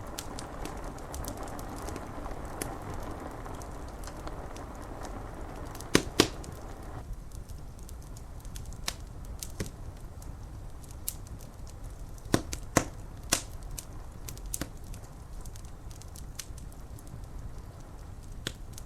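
Wood fire crackling, with scattered sharp pops over a low steady rumble; the loudest are two pops about six seconds in and a cluster of three a little past halfway. A soft hiss of rain on the glass runs under it and stops abruptly about seven seconds in.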